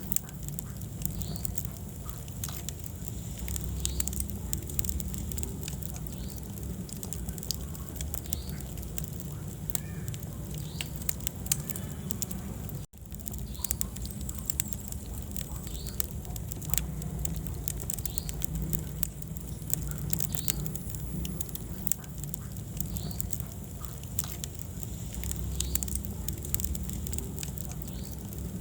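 Wood fire burning in a fireplace: dense, irregular crackling and popping over a low rumble of flames. The sound cuts out for an instant about halfway through.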